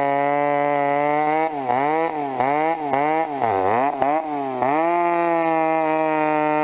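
Two-stroke chainsaw running at full throttle. Its high, steady pitch dips and recovers several times in the middle, as the chain is loaded in a cut.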